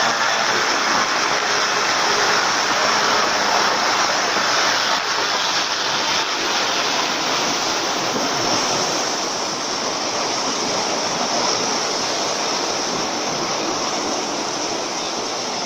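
Airboat under way: a steady, loud rush of propeller and engine noise mixed with wind and water, gradually getting a little quieter.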